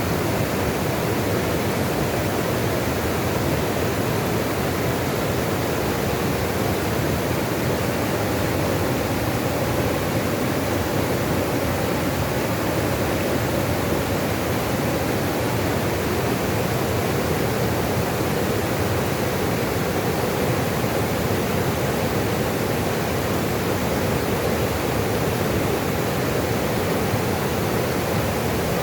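Running water rushing steadily and evenly, a continuous full rush with no pauses.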